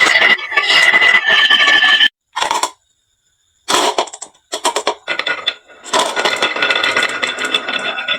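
Marbles rolling and clattering down a HABA wooden marble-run slope, a dense scraping rattle with some ringing. About two seconds in it cuts to silence for over a second, apart from one short rattle. Scattered clicks of single marbles follow, then a dense stream of marbles again.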